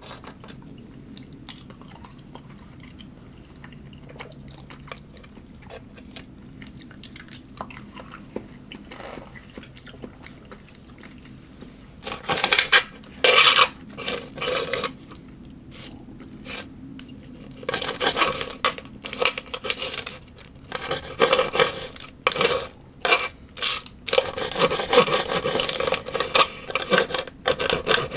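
Quiet chewing for the first part, then cutlery scraping and clinking against a dish in repeated loud bursts from about twelve seconds in.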